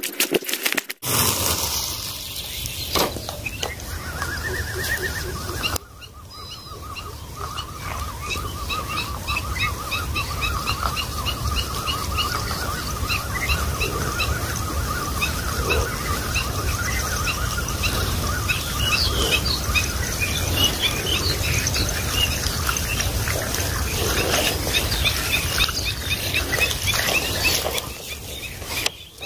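Birds chirping and calling over a low rumble, with a steady high trill running through most of it.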